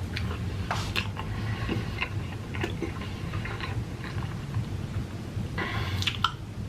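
Close-miked chewing and mouth noises from someone eating fast food, with scattered short clicks and a louder burst of sound near the end, over a steady low hum.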